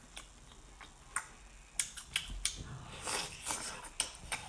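Close-miked eating sounds of someone eating a spicy lobster tail: scattered sharp mouth clicks and smacks, with a longer wet sucking slurp about three seconds in.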